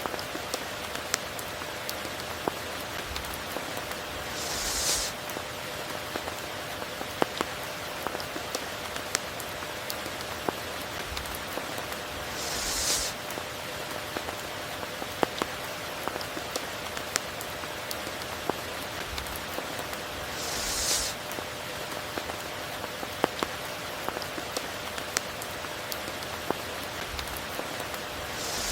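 Steady tropical rain, an even hiss with scattered sharp drip ticks. A short hissy swell, lasting under a second, recurs about every eight seconds.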